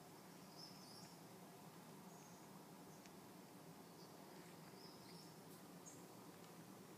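Near silence of pine woods, with faint, short, high chirps of small birds every second or so.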